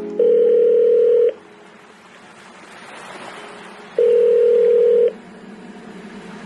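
Telephone ringing tone heard down the line: two long, steady beeps of about a second each, nearly three seconds apart, with a faint hiss between them.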